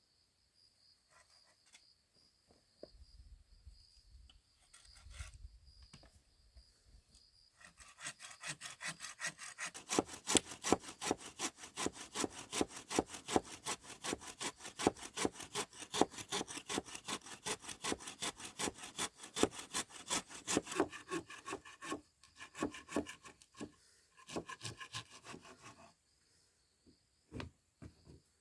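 A saw cutting through wood in quick, even back-and-forth strokes, starting about a quarter of the way in and breaking off into a few scattered strokes near the end.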